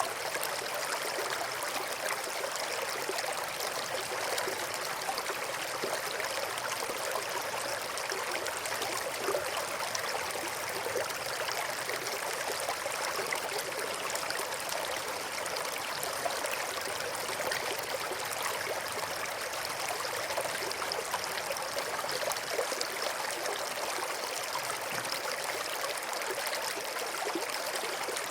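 Shallow river flowing steadily over and between rocks, a continuous even rush of water with fine babbling detail.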